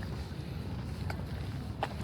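Outdoor ambience of a steady low rumble, with two faint short clicks about one second and nearly two seconds in.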